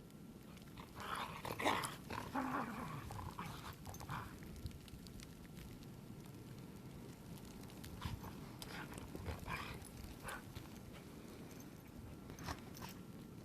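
Dogs growling and vocalizing during rough play, in bursts. The loudest burst comes about two seconds in, with more around eight to ten seconds and near the end.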